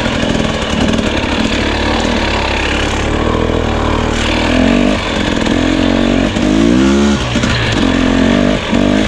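Two-stroke enduro dirt bike engine running at low revs on a slow trail ride, with quick rises and falls in revs about halfway through and again near seven seconds in.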